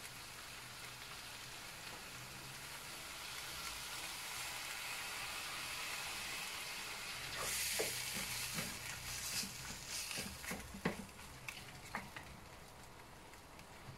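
Chicken sizzling in a hot stainless steel wok, the sizzle growing louder as soy sauce is poured in and flaring sharply about seven and a half seconds in. After that, irregular scrapes and knocks of a wooden spatula against the pan as the chicken is stirred.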